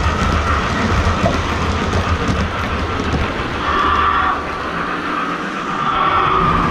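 Lionel O-scale model train running on the layout track under Legacy remote control, a steady running noise that dips slightly a little past the middle.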